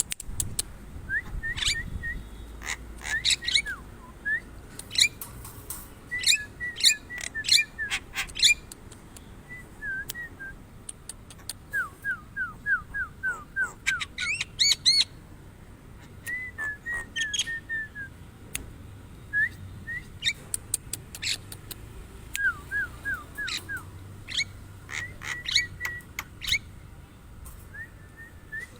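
Javan myna calling: a varied run of sharp whistles, chirps and clicks in irregular bouts, with two short series of quickly repeated falling notes.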